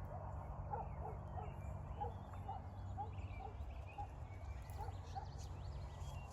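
Wild turkey yelping: a series of about a dozen short, evenly spaced yelps, two or three a second, that stop about five seconds in, over a steady low rumble.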